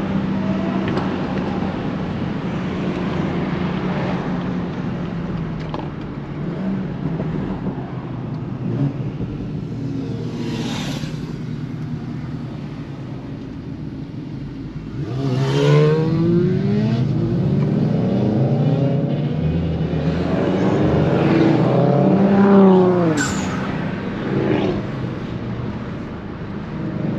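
BMW 340i's turbocharged inline-six running with road noise as the car drives along. From about halfway through, the engine pitch rises and falls several times as the car accelerates and eases off.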